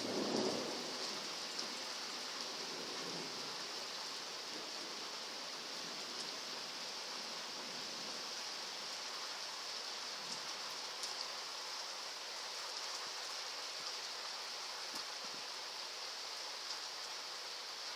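Heavy rain pouring steadily in a storm, an even hiss with a few faint scattered taps, and a short low rumble right at the start.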